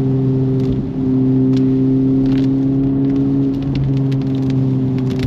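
Honda Civic Type R (FL5) turbocharged 2.0-litre four-cylinder heard from inside the cabin, droning at a near-steady pitch while cruising, over road noise and scattered light ticks.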